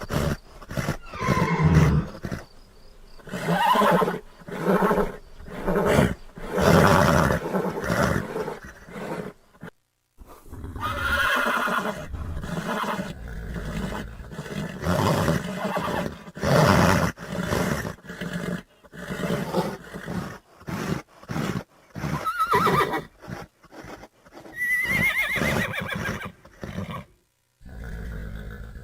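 Horse neighs and whinnies in a long run of separate calls, with a brief pause about ten seconds in and a high whinny near the end.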